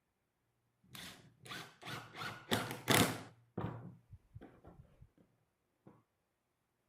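Hand work on Japanese cedar wood: a run of about seven quick scraping strokes, then a few light knocks and ticks.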